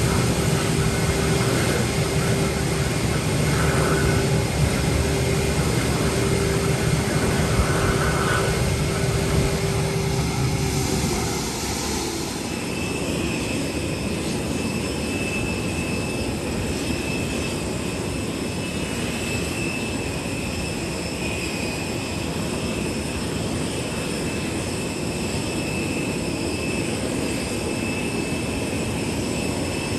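Airbus A320 engine and airflow noise heard from the flight deck, a steady rumble with a held tone. About twelve seconds in the sound changes: it gets a little quieter, the lower tone drops out and a high thin whine takes over.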